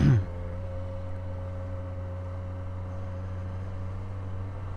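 Yamaha XJ6N's 600 cc inline-four engine running at a steady, low pace while filtering through slow traffic, heard as a steady low hum from the rider's position. Right at the start there is a short, loud sound that drops quickly in pitch.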